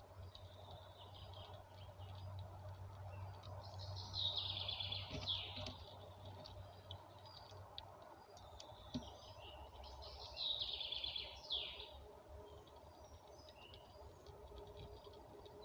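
A small songbird singing two phrases a few seconds apart, each a rapid trill ending in a quick downward sweep, with fainter chirps between them.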